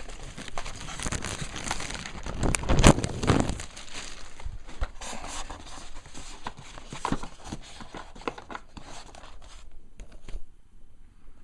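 Plastic bag crinkling and rustling as a foam model airplane's fuselage is slid out of it, with many small crackles, loudest about three seconds in and dying down near the end.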